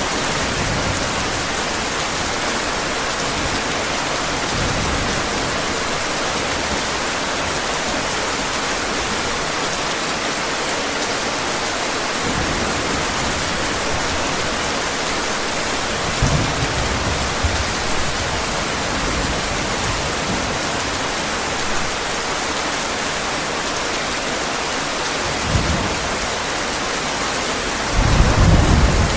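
Steady heavy rain hissing, with brief low rumbles of thunder about halfway through and a louder thunder rumble near the end.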